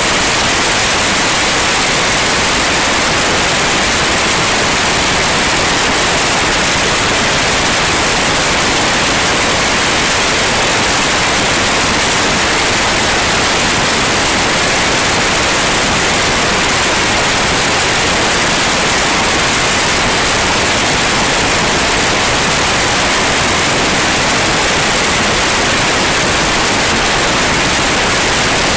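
Steady, loud rushing noise inside a light aircraft's cabin in flight: engine, propeller and airflow blended into an even roar with no change in level.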